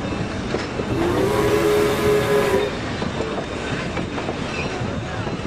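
Recorded railway sounds: trains rolling with a steady rumble and clatter. About a second in, a train's horn sounds one pitched blast lasting under two seconds.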